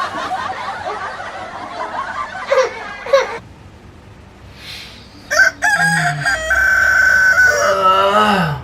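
Rooster crowing: a loud cock-a-doodle-doo starting about five seconds in, with a held high note that falls away at the end.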